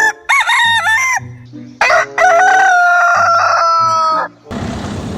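Rooster crowing: a short broken opening phrase, then a long held final note of about two seconds that sags slightly in pitch. A brief hiss follows near the end.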